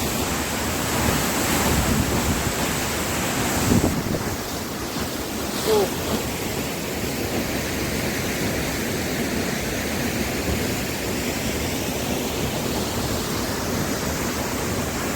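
Changey Falls waterfall, heard close up: a steady, loud rush of falling water.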